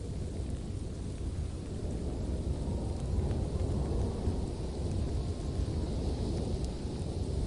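Steady ambient sleep noise: a deep, even rumble with a fainter hiss above it, like distant wind or storm, swelling slightly about three seconds in.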